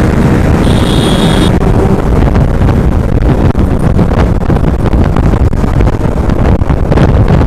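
Heavy wind buffeting on the microphone over a Yamaha R15M's 155 cc single-cylinder engine running hard at high speed. A brief high tone sounds about a second in.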